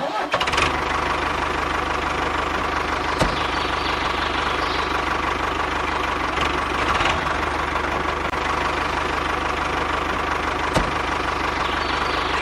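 A motor running steadily with a constant drone and a faint steady whine, with two sharp clicks, one about three seconds in and one near the end.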